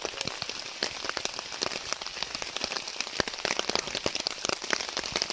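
Heavy rain falling on a tent's fabric: a dense, irregular run of separate drop hits over a steady wash of rain.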